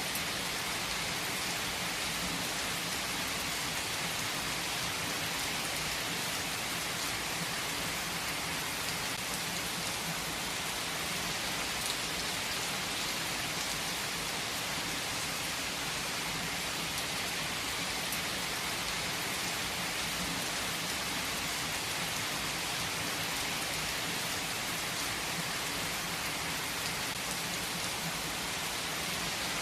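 Heavy rain falling steadily: a dense, even hiss of raindrops on surfaces, with faint individual drop ticks and no let-up.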